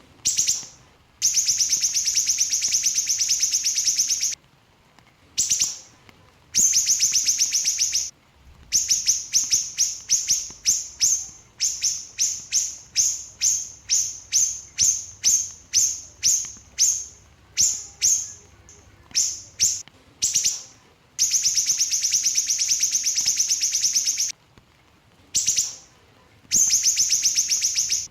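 Small siri-siri bird singing in rapid-fire bursts: long, fast high-pitched trills broken by a run of short sharp calls about two a second, then trilling again near the end.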